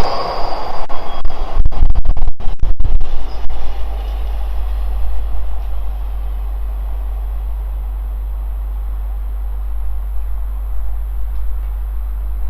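A freight train passing and moving away. Its loud rumble, broken by a few brief crackling dropouts, dies down about three and a half seconds in, leaving a steady low rumble.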